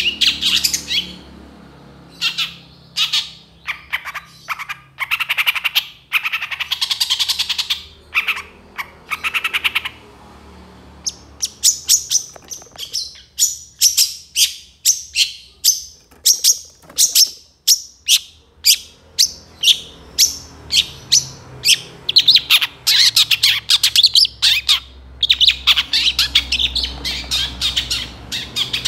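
Long-tailed shrike (cendet) singing loudly. Harsh, scratchy phrases give way about ten seconds in to a fast run of sharp, high separate notes, several a second. Dense scratchy chatter returns near the end.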